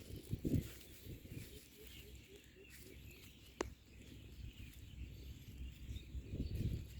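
Faint bird calls over low rustling and handling noise, with a quick run of short low notes about two seconds in and a single sharp click a little after halfway.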